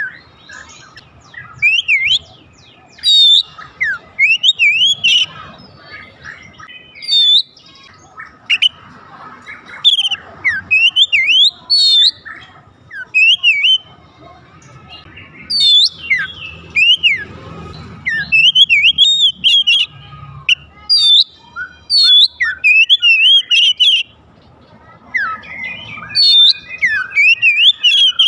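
Oriental magpie-robin (kacer) singing: loud, varied phrases of quick rising and falling whistles and chirps, in bursts of a second or two with short pauses between.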